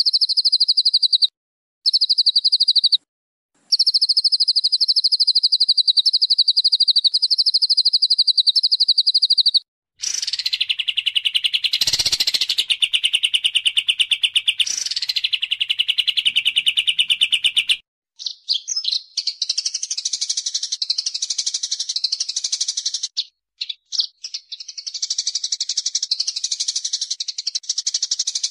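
Song of the songbird known in Indonesia as 'timer': long, fast, evenly pulsed high trills with a few short breaks. About ten seconds in the trill turns lower and denser, with two loud sweeping notes. From about eighteen seconds a scratchier, chattering song follows.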